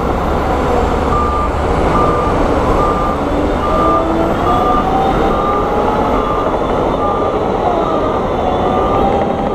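A heavy construction machine's reversing alarm beeps steadily at one pitch, about once every 0.7 seconds, over the loud, continuous din of its diesel engine and running gear, with a wavering whine underneath.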